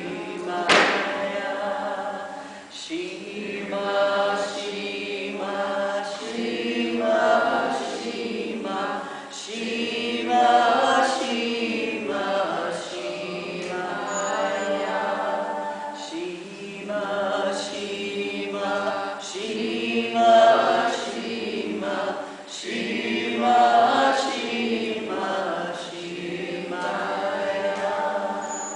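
A group of voices chanting together, singing a short devotional phrase over and over.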